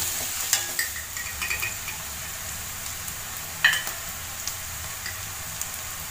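Onions, green chillies and curry leaves sizzling in oil in a metal wok, stirred and scraped with a metal spatula at first. The stirring stops about a second in and a steady sizzle remains, with a few light clinks of the spatula against the pan.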